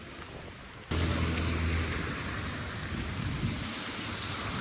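Wind buffeting the microphone over the steady hiss of city traffic, with a vehicle engine's low hum cutting in abruptly about a second in.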